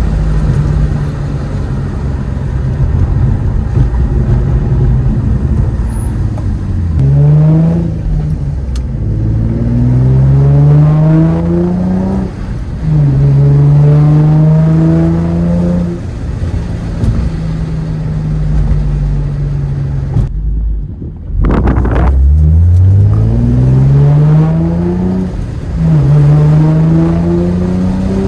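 2004 Infiniti G35's V6 through a Motordyne TDX-2 Shockwave cat-back exhaust, accelerating through the gears: the engine note climbs, drops at each shift and climbs again, several times over. It holds steady for a few seconds in the middle and breaks off briefly about twenty seconds in before another climbing pull.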